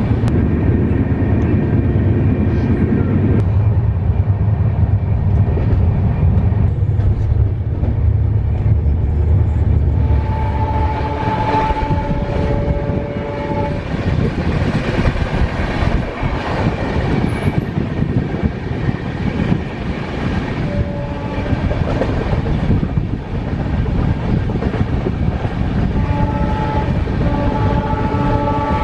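Train running along the track with a steady rumble. A train horn sounds twice, held for a few seconds each time: about eleven seconds in and again near the end.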